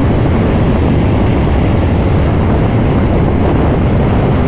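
Strong wind buffeting the microphone of a motorcycle rider at speed on a Kawasaki Ninja 500: a loud, steady low rumble of wind and riding noise.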